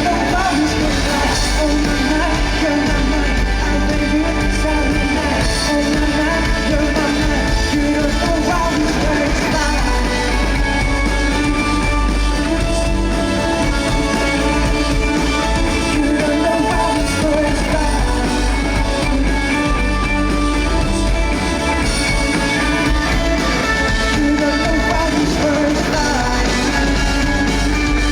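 Live band playing a pop-rock song, with a vocalist singing over electric guitar and a steady band backing, amplified through a concert sound system.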